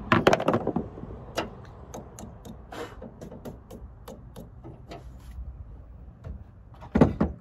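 Clicks and knocks of hard parts being handled while a car tail light is fitted: a loud clatter at the start, scattered single clicks, and another loud clatter near the end.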